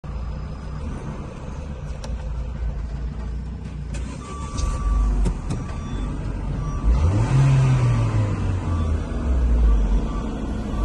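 Renault Scenic II's 2.0 16-valve F4R four-cylinder petrol engine running at idle. It is revved once about seven seconds in and settles back to idle, as it is tested. A few light clicks are heard around the second and fifth seconds.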